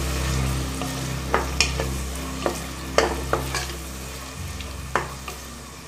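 Chicken pieces and green peas sizzling in hot oil in a pressure cooker, stirred with a wooden spatula that knocks and scrapes against the pot every second or so, over a steady low hum.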